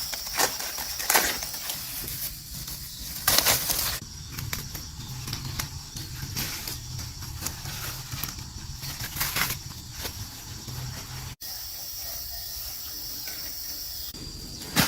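Rustling and brief crunching noises over a steady low hum, with a sudden change in the background about eleven seconds in.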